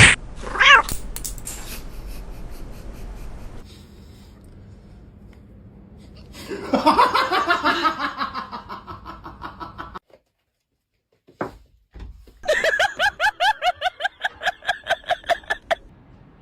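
Cats vocalising in a string of short clips: a sharp click and a brief falling call near the start, then two long runs of rapid, evenly pulsed cries, about six a second, separated by a short silent gap.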